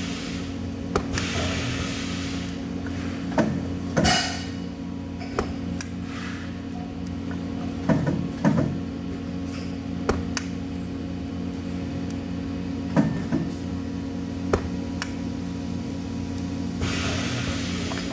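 Industrial workshop noise: a steady machine hum with scattered metal knocks and clanks, and a few short hissing bursts, the longest near the end.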